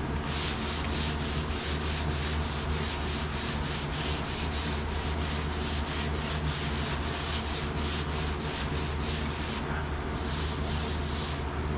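Hand sanding on a truck cab's painted sheet-metal roof, quick back-and-forth strokes about three a second with a brief pause near the end: scuffing off paint that went on too dry. A steady low hum runs underneath.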